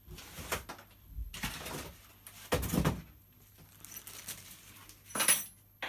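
Knocks, bumps and scrapes of a small benchtop bandsaw being lifted out of its cardboard box and set down, in several short bursts, with the heaviest thump about two and a half seconds in.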